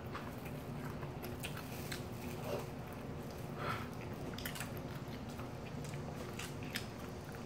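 Two people biting and chewing fried chicken, with scattered sharp crunches and mouth clicks.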